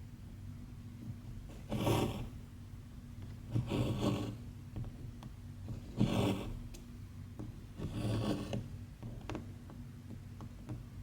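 Embroidery thread pulled through cross-stitch fabric with a rasping swish, four times about two seconds apart, then a few light clicks near the end.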